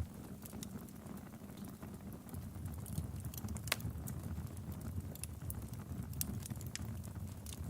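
Logs burning in a fireplace, crackling with irregular sharp pops over a low steady rumble of the flames. One pop about halfway through stands out louder than the rest.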